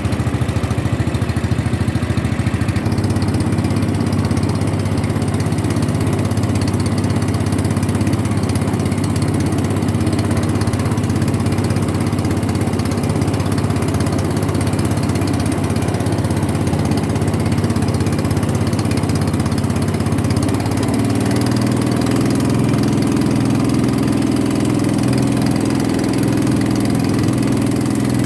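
A boat's engine running steadily, its tone shifting slightly about three seconds in and again about two-thirds of the way through.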